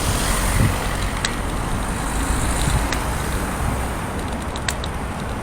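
Steady road traffic passing on a busy street, a continuous rumble of cars and trucks, with a few light clicks.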